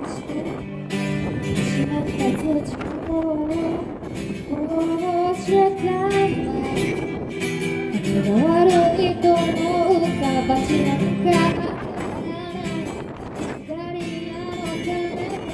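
Female singer performing live with acoustic guitar: steady strumming, with her voice coming in about five seconds in and dropping out a little before the end.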